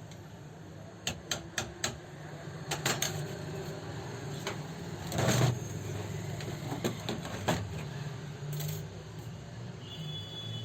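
Sharp metallic clicks and taps from tools and parts being handled on an old Revo 81-3 overlock sewing machine. There is a quick run of four clicks about a second in, scattered clicks and taps later, and one louder short scrape midway, all over a steady low hum.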